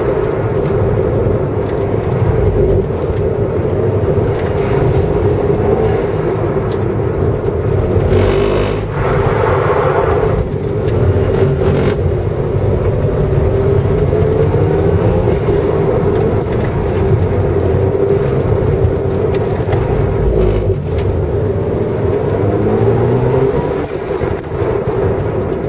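Mazda RX-7 FD3S twin-turbo rotary engine heard from inside the cabin, revving up and falling back again and again as the car is driven hard through a cone course. A louder rush of noise comes in briefly about eight to ten seconds in.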